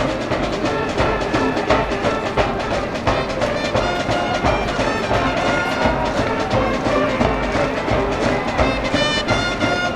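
School brass band in the cheering stands playing a fight song, with trumpets and trombones carrying the tune over a steady drumbeat.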